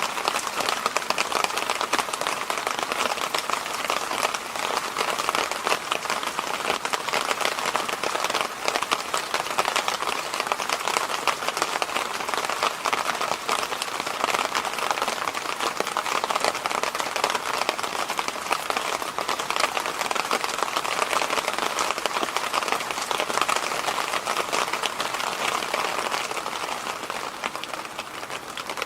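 Electric fan running steadily: an even rush of moving air with a fine, rapid crackling patter running through it.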